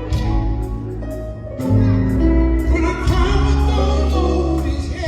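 Live gospel music: voices singing over a band with heavy bass and a steady beat.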